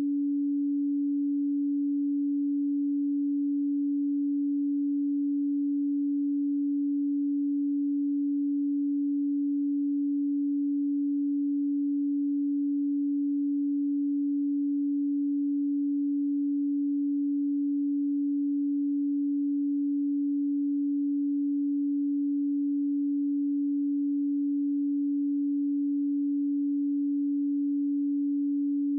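A pure sine tone at 285 Hz, held steady and unchanging.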